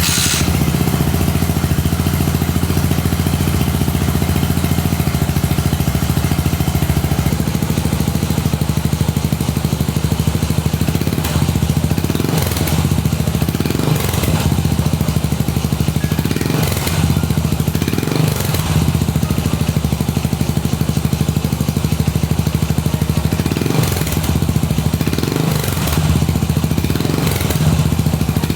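Yamaha SR400's air-cooled single-cylinder four-stroke engine idling steadily through its exhaust, with a few light throttle blips in the second half.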